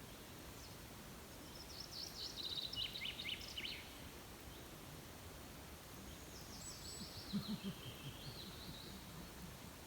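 A songbird singing two phrases of quick high chirps and trills, the first about two seconds in and the second about six and a half seconds in, over a steady background hiss.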